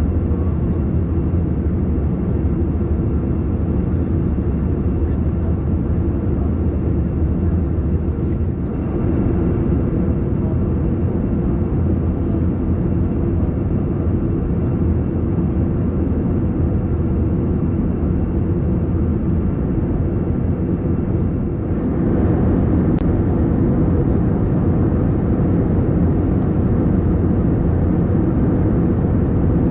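Steady engine and airflow noise inside the cabin of an Airbus A321 in flight: a low drone with faint steady tones. It becomes slightly louder and brighter at about nine and about twenty-two seconds in.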